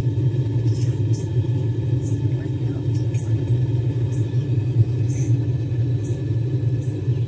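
Gas forge burner running with a steady low rumble while the metal heats, with faint short hisses every second or so.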